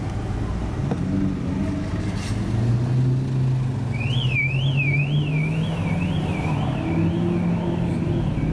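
Car engine running at low revs in slow stop-start traffic, heard from inside the car, its pitch rising a little partway through. About halfway in, a siren starts, warbling up and down about twice a second.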